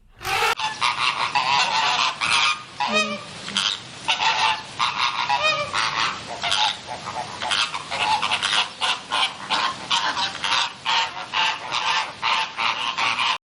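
A flock of birds calling: many short calls overlapping in a dense, almost unbroken chorus, with a couple of falling calls standing out, then a sudden cut-off near the end.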